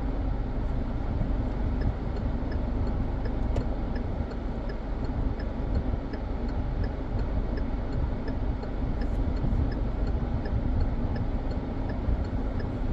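Road and engine noise inside a moving car, with the turn-signal indicator ticking at an even pace, about two ticks a second, starting a couple of seconds in and stopping near the end.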